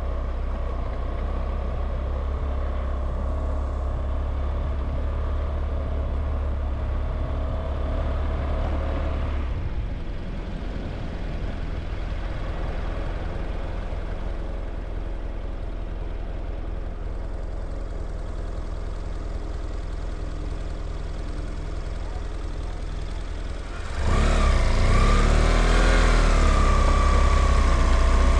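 A vehicle's engine and road noise running steadily while riding. Near the end a louder engine sound comes in suddenly, its pitch wavering up and down.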